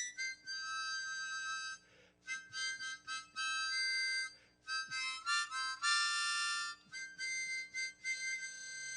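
Solo harmonica playing a hymn melody: held, reedy notes that change pitch one after another, with brief pauses for breath.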